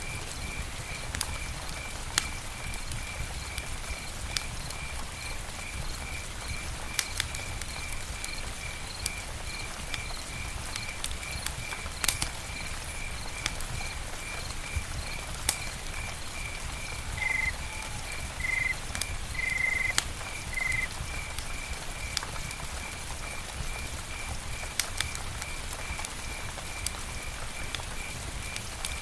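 Campfire crackling, with scattered sharp pops over a low, steady rush of burning wood. A cricket chirps steadily in the background at about three pulses a second, and a few short calls of another animal come in a little past halfway.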